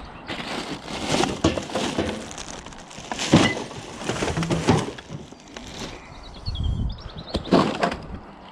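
Dumped rubbish being rummaged through and handled, with irregular knocks, scrapes and rustles. A bird chirps briefly around six and a half seconds in.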